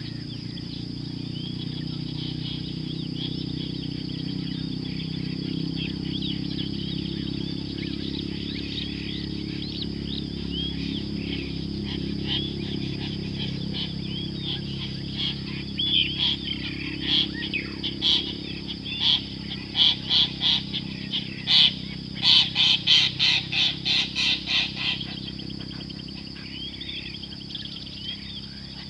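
Wild birds calling over a steady high hum. About halfway through, one bird gives a loud series of repeated calls, about two to three a second, quickening for about ten seconds before it stops.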